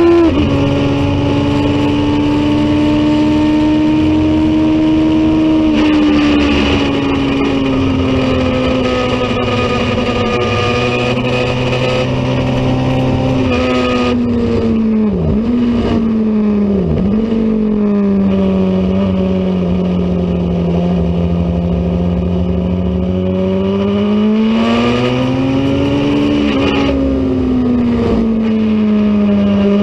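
Racing motorcycle engine running hard under way. Its note eases gradually downward, dips sharply twice about halfway through, settles lower, then climbs and falls again near the end.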